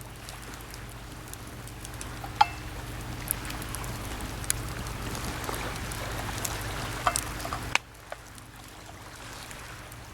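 Wood campfire crackling, with a handful of sharp pops from the burning wood over a steady rushing hiss that swells and then cuts off suddenly near the end.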